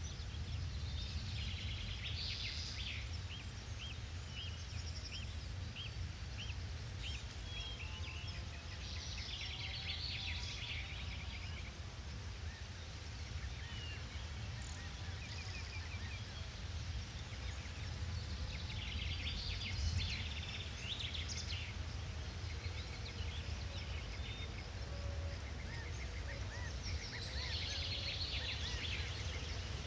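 Forest ambience: birds singing in bursts of high chirps and trills every several seconds, one of them a run of evenly spaced short notes, over a steady low rumble.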